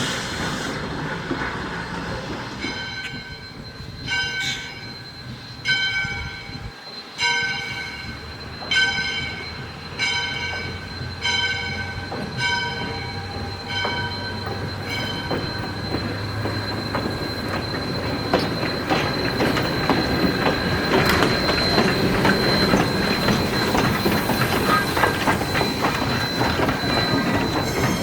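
ALCO 2-8-2 Mikado steam locomotive's bell ringing in slow strokes about every second and a half, then the train running by with rising rumble and clatter of wheels on rail and a thin steady squeal.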